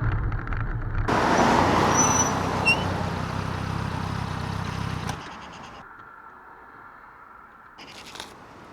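Motorcycle engine running under way with wind rush on the microphone. The sound drops away abruptly about five seconds in, leaving quieter road and engine noise.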